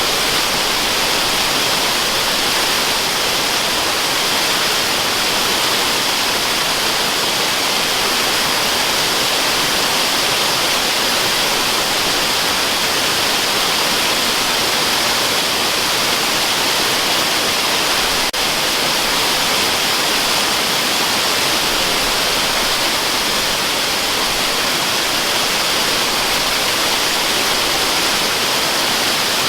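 Waterfall: a steady, even rush of falling water, heaviest in the high hiss, used as white noise. A faint click with a brief dip in level comes about eighteen seconds in.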